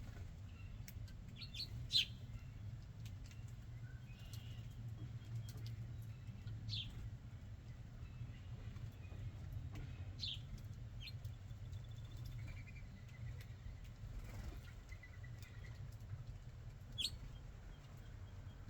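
Small backyard birds chirping: a handful of short, sharp, high calls spread several seconds apart, the loudest about two seconds in, with a faint thin trill in the middle. A steady low rumble runs underneath.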